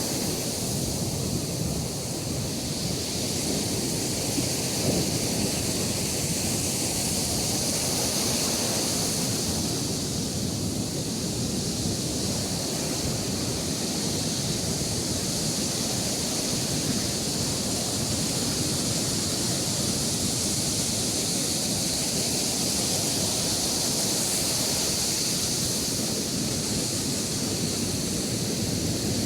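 Sea surf on a beach: waves breaking and washing in as a steady, continuous rush of noise.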